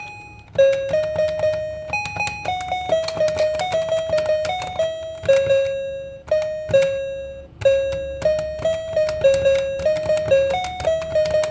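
Children's electronic toy playing a simple piano-like melody through its small built-in speaker, one note at a time with short breaks between phrases.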